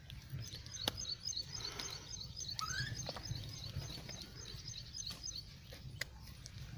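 Small birds chirping: a steady run of quick, high chirps, with one rising chirp near the middle and a couple of faint clicks.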